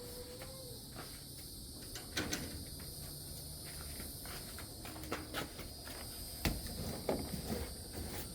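Scattered knocks and clicks of hands-on work, a few seconds apart, over a steady high-pitched drone of insects.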